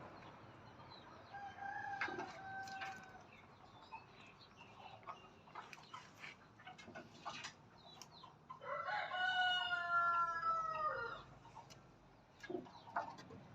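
A rooster crows twice: a fainter, even crow about a second in, then a louder crow about nine seconds in that lasts a couple of seconds and falls slightly in pitch at the end. Short scattered clicks are heard between the crows.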